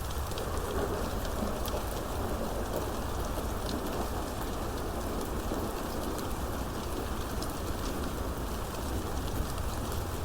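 Steady rain falling, with scattered sharp ticks of individual drops striking a surface.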